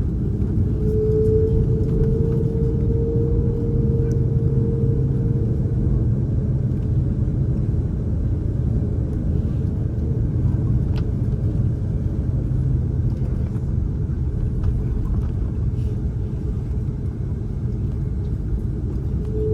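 Airbus A330-243 cabin during taxi: the Rolls-Royce Trent 772B engines' steady low rumble, with a steady whine sounding about a second in and fading out after about five seconds.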